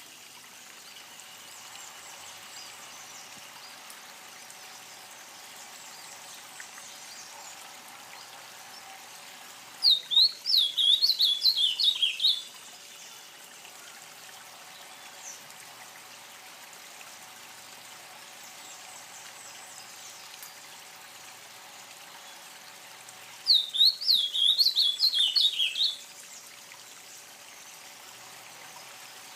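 A songbird singing a short phrase of rapid, rising-and-falling whistled notes, twice, about 13 seconds apart, over a steady background hiss.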